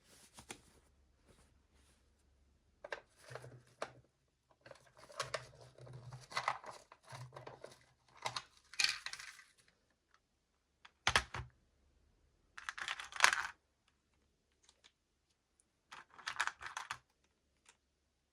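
Hands handling toy packaging: plastic crinkling, tearing and small clicks and taps in several short spells, with pauses between.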